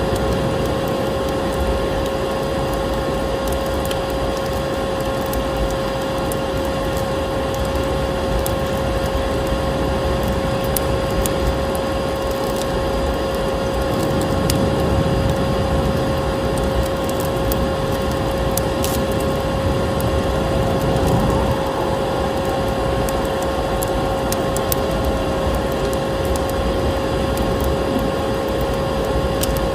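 Steady hum and rush of a running vacuum cleaner, with a fixed whine, mixed with wood crackling and popping in a fireplace as scattered sharp clicks.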